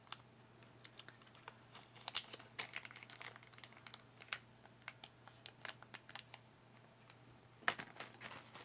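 Earrings and their small packaging being handled: scattered light clicks and soft crinkling, a little busier near the end.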